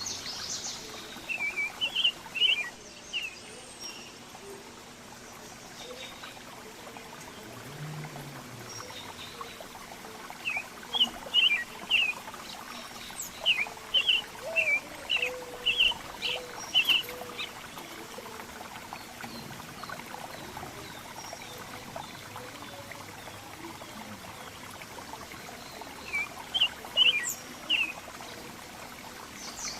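Small songbirds chirping in runs of short, sharp notes, with quieter gaps between the runs, over a steady background hiss.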